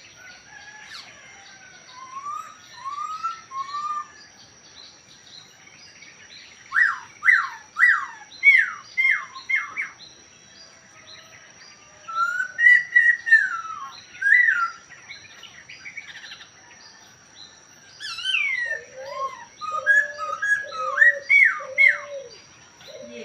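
A Chinese hwamei (poksay Hongkong) singing: loud, clear whistled notes that sweep up and down, delivered in quick clusters of three to six with pauses of a couple of seconds between.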